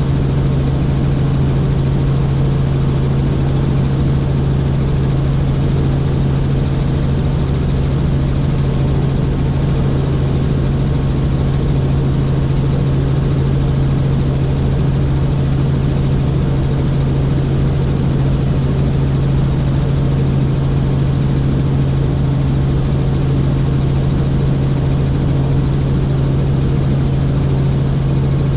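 Helicopter in flight, its engine and rotor running steadily with an even low drone and hum, heard from inside the cabin.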